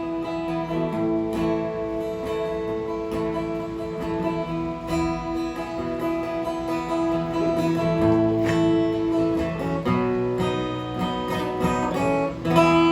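Acoustic guitar being strummed, its chords ringing and changing every second or two: the instrumental close of a song after the last sung line.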